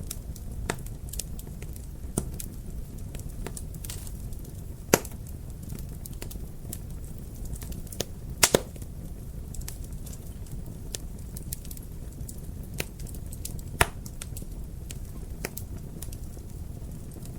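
Wood fire crackling in a fireplace: a steady low rumble of burning with frequent small snaps and a few louder pops, the loudest about five seconds in, a quick double pop past the middle, and another near the end.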